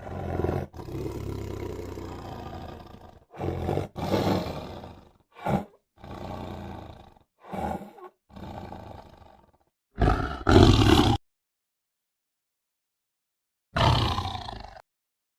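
Tiger roars in a string of separate calls of varying length, each cut off sharply as if spliced. The loudest pair comes about two-thirds of the way in, followed by a silent gap of about two and a half seconds and one more roar near the end.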